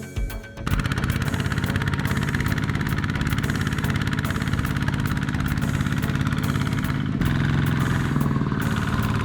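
Mini tractor engine running with a fast, even chugging as the tractor works in mud; its note shifts a little about seven seconds in. A short stretch of music ends within the first second.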